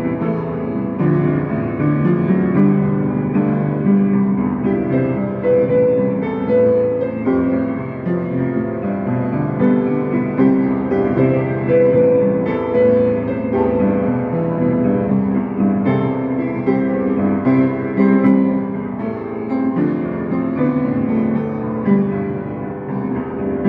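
Piano playing a cover of a pop song by ear: chords under a melody, without pause.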